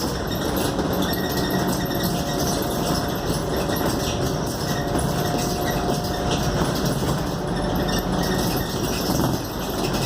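Interior noise of a Scania K280UD double-decker bus on the move: engine and road noise with constant small rattles from the body, and a faint whine from about two to six and a half seconds in.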